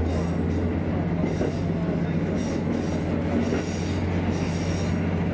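KiHa 54 diesel railcar running on curving track, heard from inside its cab: a steady low diesel drone over wheel and rail rumble, with faint high flange squeal coming and going on the curves.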